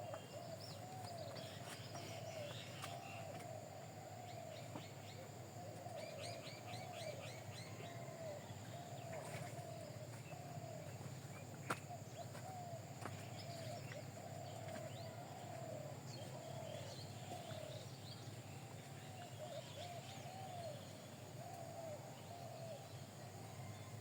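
Birds calling: a steady stream of short, rising-and-falling call notes, with higher chirps and a quick trill over the top. A single sharp click is heard about midway.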